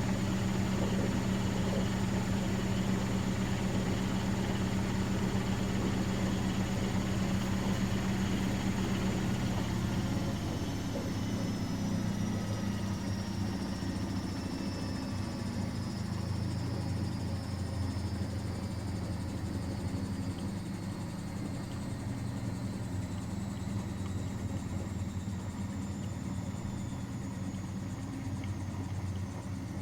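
Miele Professional WS5436 washing machine running, a steady hum with a high motor whine that slowly falls in pitch from about a third of the way in: the drum winding down from a spin.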